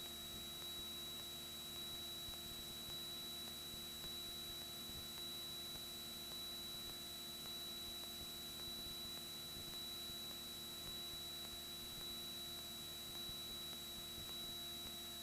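Faint, steady cabin drone of a Cessna 172N in flight, heard through the headset intercom recording: a constant low hum with a thin high whine over light hiss.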